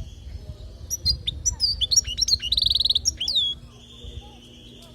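European goldfinch singing: a fast run of sharp twittering notes starting about a second in, with a buzzy trill and a falling note near the end of the phrase. This is the song used to teach young goldfinches.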